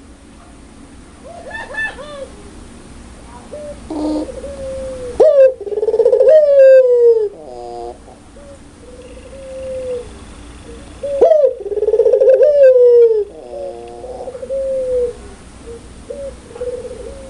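Puter pelung (Barbary dove) giving loud laughing coos: two long calls, about six seconds apart, each a sharp rising note followed by a drawn-out falling coo, with softer short coos in between.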